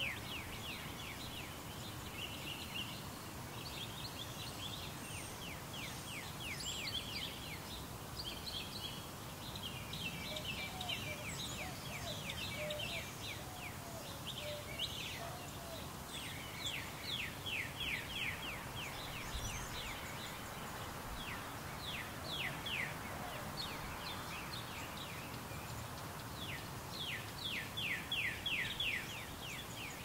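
Birds singing, with quick trills of sharp, high, downslurred notes repeated every few seconds. A steady hiss from the Canon T3i's automatic gain control lies under it.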